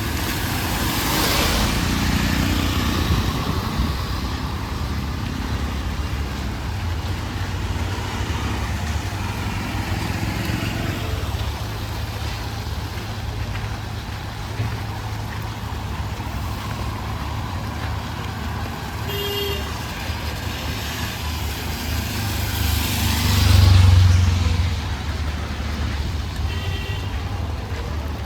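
Street traffic: vehicle engines running with a steady rumble, one vehicle passing close near the end as the loudest moment, and a couple of short horn toots.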